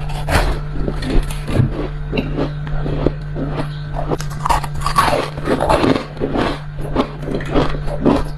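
Ice being bitten and crunched close to the microphone: a quick, irregular series of crisp crunches, over a steady low hum.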